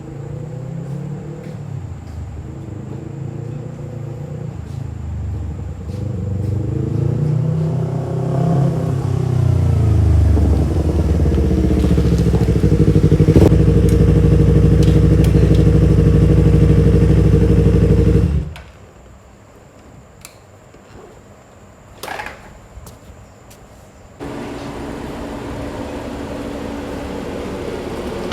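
Audi A8 being driven: the engine note rises and falls, then holds steady and loud before cutting off suddenly about two-thirds of the way in. A quieter stretch follows with a couple of sharp knocks, then a steady, lower hum.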